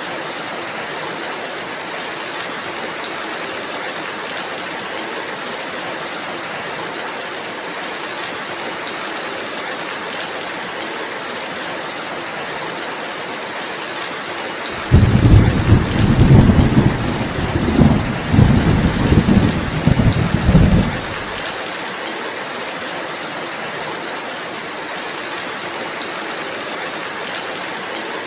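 Steady rainfall, with a loud, low roll of thunder that breaks in suddenly a little past halfway and rumbles for about six seconds before dying away, far louder than the rain.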